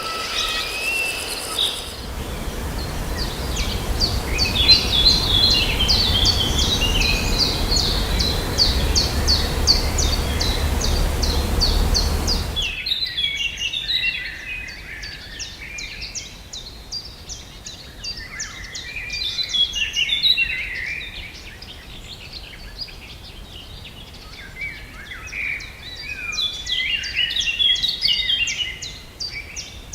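Wild birds calling. For the first several seconds a rapid run of short, high, repeated notes, about three a second, sounds over a steady rushing noise with a deep rumble. After a sudden cut there is a chorus of several birds chirping and singing over a quiet background.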